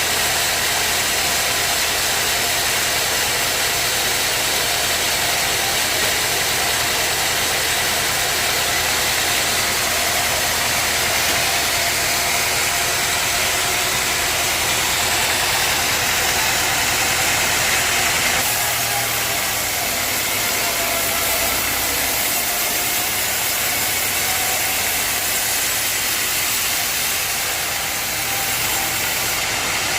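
Sawmill machinery running with a loud, steady mechanical noise; its character shifts abruptly about two-thirds of the way through.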